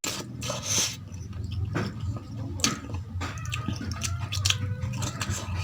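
Close-up wet chewing and mouth sounds of a person eating rice and mutton in gravy, with irregular smacks and clicks over a steady low hum.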